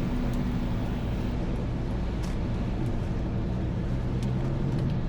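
Car driving along: steady engine and road noise with a low hum, and a couple of faint ticks.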